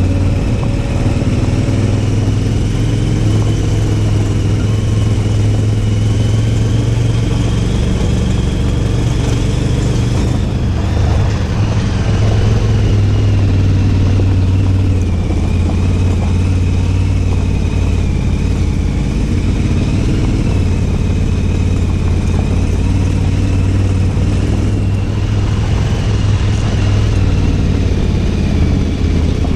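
Motorcycle engine, the big V-twin of a KTM 990, running steadily at low revs without sharp revving.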